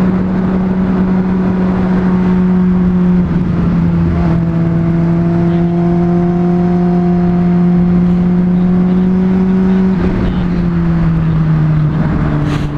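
Honda CBR600RR inline-four sport-bike engine running at a steady cruise, with wind rush over the microphone. Its pitch dips briefly about three seconds in, climbs slowly, then falls away over the last few seconds as the throttle eases off.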